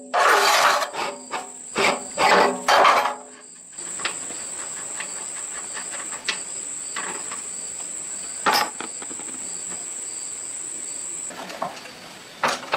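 Insects trilling steadily at a high pitch, cutting off near the end, with a sharp knock midway. The first three seconds hold a few loud rasping clatters of metal work.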